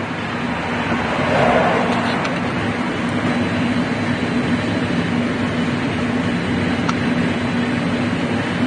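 Steady mechanical hum with a constant low tone, swelling slightly about a second in and then holding level.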